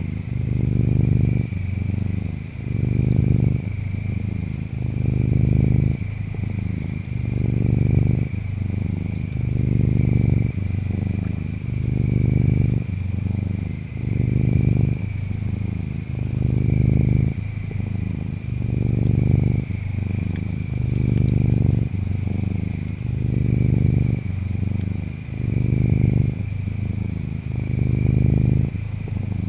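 Cat purring, loud and low, swelling and easing in even cycles about once every two seconds. Insects chirp behind it: a steady high trill, with shorter very high chirping bursts every few seconds.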